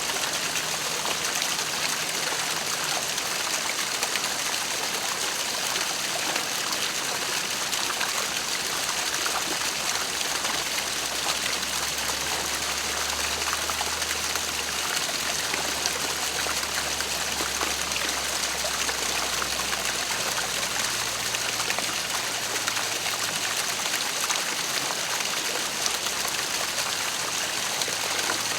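Waterfall: a steady rush of falling and splashing water, unchanging throughout.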